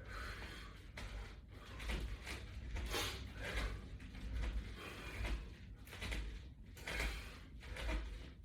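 A person working out with resistance-band equipment: a series of soft, irregular swishing and creaking sounds over a low rumble.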